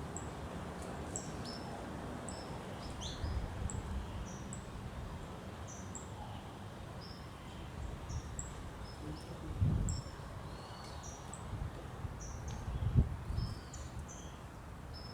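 Small birds singing at dawn, a run of short, high chirps repeating over a steady background hiss. A few low thumps break in, the loudest about two seconds before the end.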